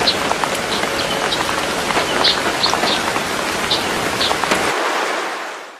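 Rain falling: a steady hiss of rain with scattered drops ticking on a surface, fading out near the end.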